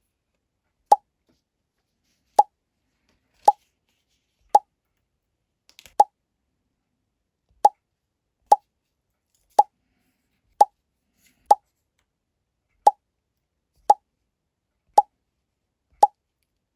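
A short, bright pop sound effect repeated fourteen times at roughly one-second intervals, with silence between the pops.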